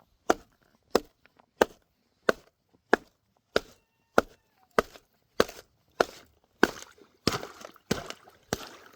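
Repeated strikes breaking up thick ice frozen in a backyard duck pool, a sharp hit about every two-thirds of a second. Toward the end each hit is followed by a few smaller cracks as the ice gives way.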